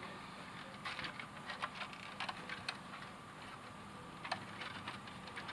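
Faint, scattered light clicks and taps of plastic parts of a robot vacuum being handled.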